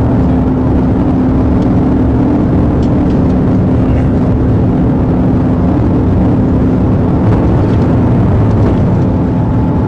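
Police patrol car's engine and road noise heard from inside the cabin at speed: a loud, steady rush with a constant low hum.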